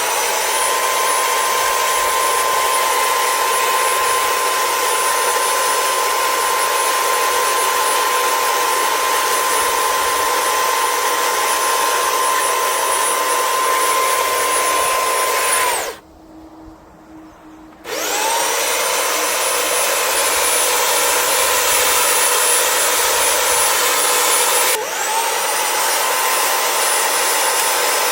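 High-speed electric power tool working wood, a steady whine over cutting or sanding noise. It stops for about two seconds, spins up again with a rising whine, and briefly drops and spins back up near the end.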